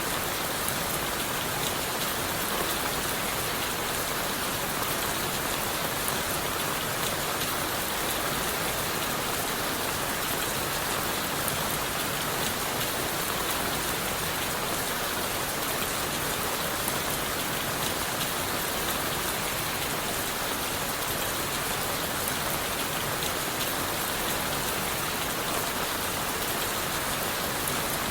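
Steady rain falling on leaves, wood and the forest floor, a dense even patter of drops without let-up.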